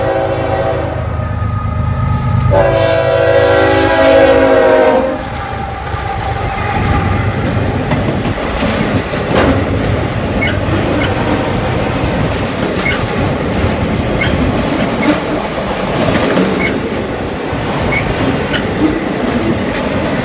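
CSX freight locomotive's air horn blowing at a grade crossing: a blast that ends about a second and a half in, then a louder one of about two and a half seconds that stops about five seconds in. The locomotives and a string of autorack cars then roll past with a steady rumble and clickety-clack of wheels over the rail joints.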